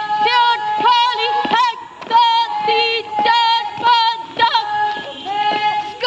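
A high-pitched female singing voice carrying a song, with held notes that waver in pitch.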